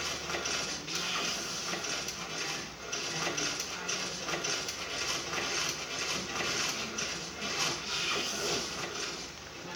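A puppy chewing and gnawing on a bone, giving a continuous run of irregular scraping noises.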